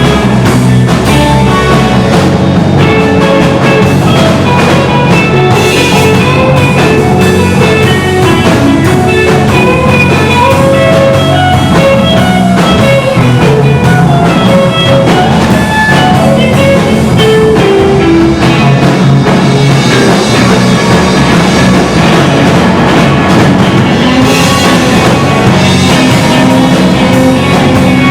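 Rock band playing an original song: electric guitar lines over bass and drum kit, loud and continuous.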